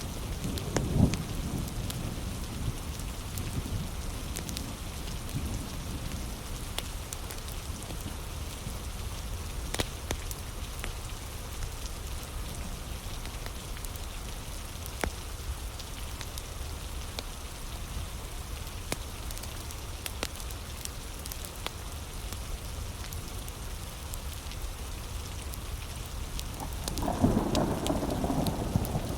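Steady heavy rain, with scattered sharp clicks through it. Low rumbles of thunder come right at the start and again near the end.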